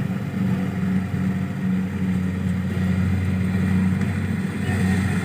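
A small engine running steadily at an even speed, a constant low hum with no change in pitch.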